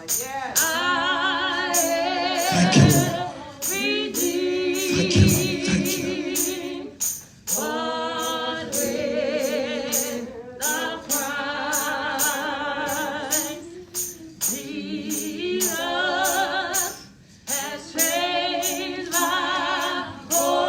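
Gospel singing, with long held notes wavering in vibrato, and a tambourine struck on a steady beat throughout.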